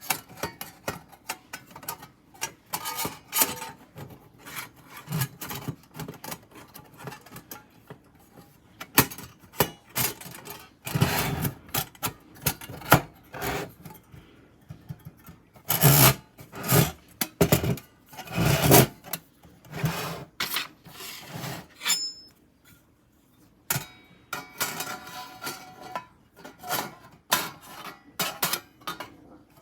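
Irregular scraping, rubbing and knocking of objects being handled, with a few louder knocks around the middle.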